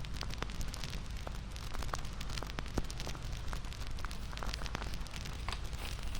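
Bonfire crackling: a steady low rumble of burning wood with frequent irregular pops and snaps.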